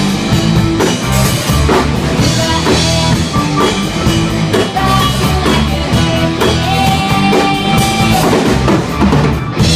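Rock music with a drum kit beating steadily under held guitar notes.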